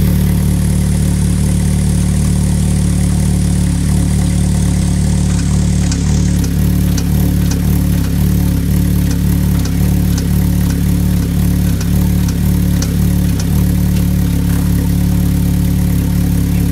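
Vauxhall VX220's 2.2-litre Z22SE four-cylinder engine running steadily at idle, with a strange knock: sharp, irregular clicks come and go from about four seconds in until about three seconds before the end.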